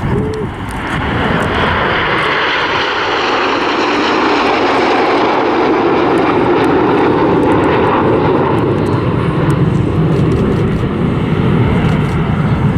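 Formation of BAE Hawk T1 jets flying past, their Adour turbofan engines making a steady rushing jet noise that grows over the first couple of seconds and slowly deepens as they go by.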